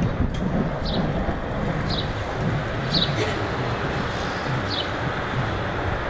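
A bird repeating a short, falling chirp roughly once a second, over a steady background rumble of wind on the microphone and street traffic.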